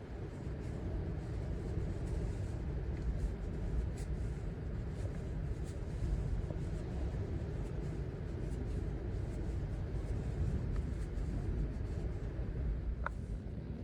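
Strong, gusty Santa Ana wind blowing, heard mostly as low, fluctuating noise from wind hitting the microphone, with a few faint clicks.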